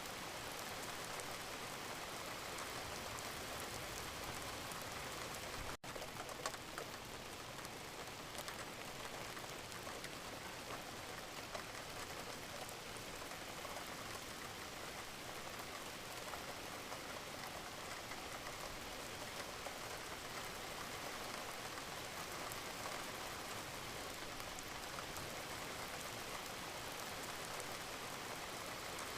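Wood fire crackling and hissing steadily, with a dense run of small crackles. The sound cuts out for an instant about six seconds in, followed by a few louder pops.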